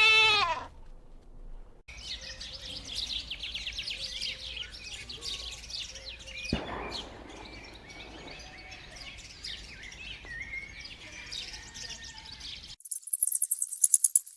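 A brief, loud bleat at the very start, then a dense chorus of small birds chirping and twittering for about eleven seconds, with one short rush of noise midway. Near the end it cuts to a high jingling rattle.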